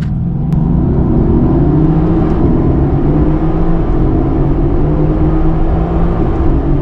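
Mercedes-AMG GT S 4.0-litre twin-turbo V8, running a stage 1 tune, heard from inside the cabin while the car accelerates. The engine note climbs in pitch over the first few seconds, then holds fairly steady.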